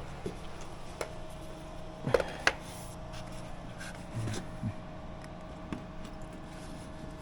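A few sharp clicks and knocks over a steady hum, the loudest pair about two seconds in, with a couple of duller thumps a little later.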